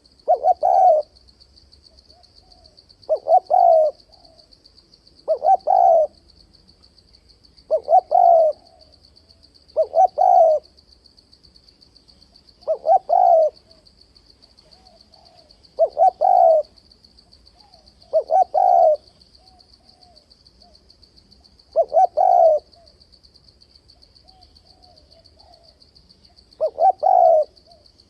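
Spotted dove cooing in short repeated phrases, about every two to three seconds, with a longer pause near the end. A faint steady high-pitched whine runs underneath.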